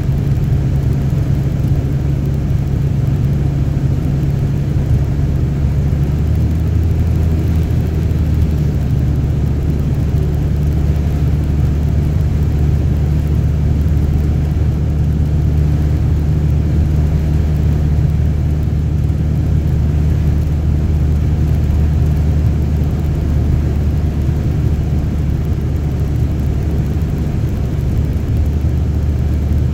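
Steady engine and road noise inside a moving car's cabin: a low, even drone that shifts slightly in pitch about six seconds in.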